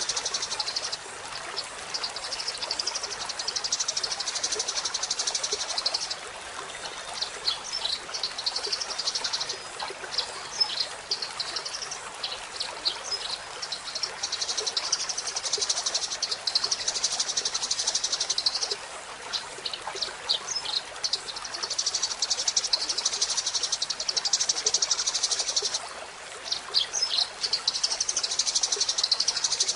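Eurasian tree sparrow song: long, rapid, high-pitched chattering trills lasting several seconds each, broken by short runs of separate chirps.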